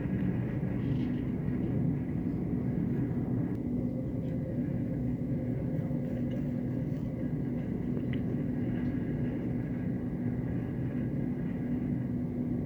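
Moving passenger train heard from inside a carriage: a steady rumble with a low, even hum running through it.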